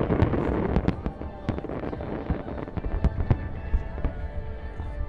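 Fireworks display: a dense crackle in the first second, then many sharp bangs at irregular intervals, several a second, with music playing underneath.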